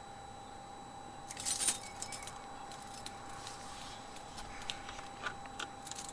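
A bunch of car keys jangling in small hands, loudest about one and a half seconds in, then a few light clinks.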